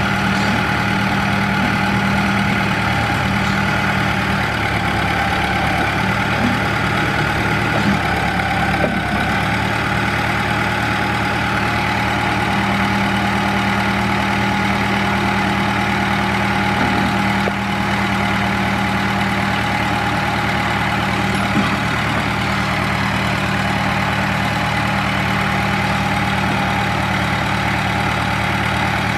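Case DH4 articulated trencher's engine idling steadily.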